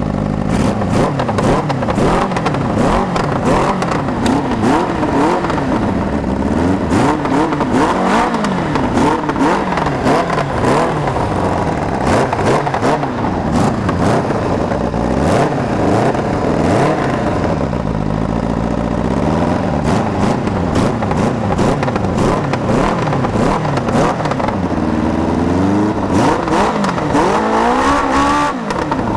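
Kawasaki 750 engine in a Polaris ATV revving up and down over and over, its pitch climbing and dropping every second or two.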